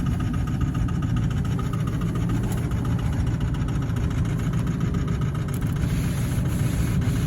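Ford 6.0-litre Power Stroke V8 turbo-diesel idling steadily just after a cold start, its injectors already firing.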